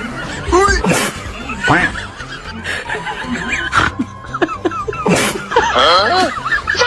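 Snickering laughter in several short, warbling bursts, the longest about five seconds in.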